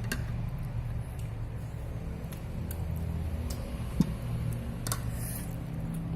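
Chopsticks and a fork clicking lightly against a noodle bowl during eating: a few faint ticks about a second apart and one sharper click about four seconds in, over a steady low hum.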